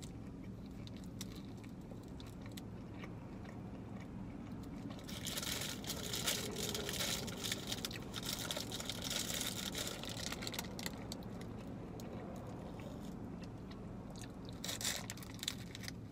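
A person chewing a mouthful of soft sweet pretzel dipped in cream cheese frosting, close to the mic. A run of crackly mouth and paper sounds comes in the middle, and a short burst near the end.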